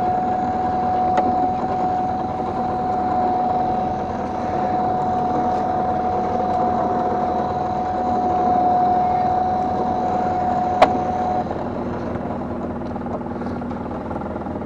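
Fishing boat's machinery running steadily as a gill net is hauled, with a constant whine over the hum. The whine cuts off about eleven seconds in, just after a single sharp click, and the hum carries on.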